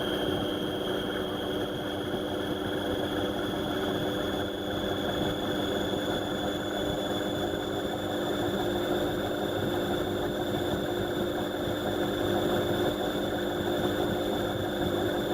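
Indesit washing machine running, a steady mechanical hum and vibration with a high motor whine that rises slowly in pitch.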